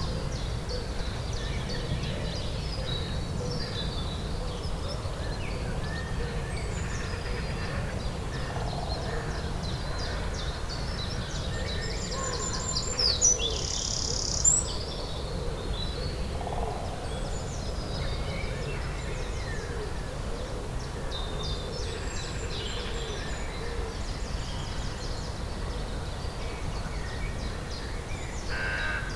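Spring dawn-chorus-style birdsong: several songbirds chirping and trilling throughout, with one louder, high call about halfway through, over a steady low background rumble.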